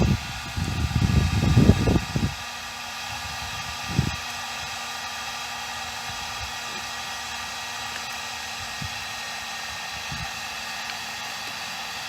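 Heat gun running steadily, blowing hot air onto the end of a small PVC pipe to soften it for forming a bell socket. Low rumbling in the first two seconds and a single knock about four seconds in.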